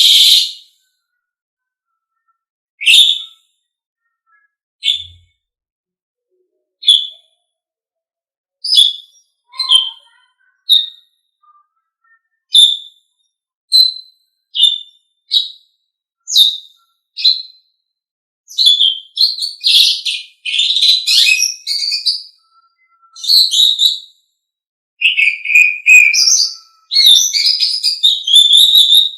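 Asian pied starling (jalak suren) giving short whistled calls every second or two, then breaking into dense, near-continuous chattering song after about eighteen seconds.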